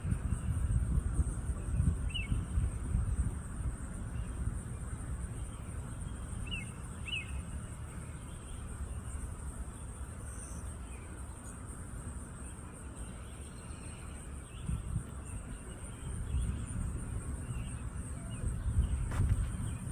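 Outdoor wildlife ambience: a steady, high-pitched insect drone throughout, with a few short bird chirps and a low rumbling noise that swells near the start and end.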